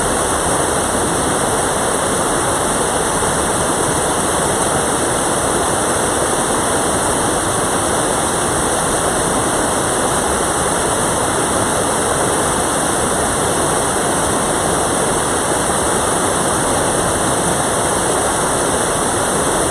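Mountain valley stream running: a steady, unbroken rush of water.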